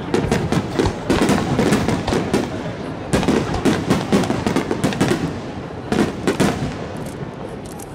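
Aerial fireworks shells bursting overhead in quick succession: a dense run of bangs and crackles that eases off near the end.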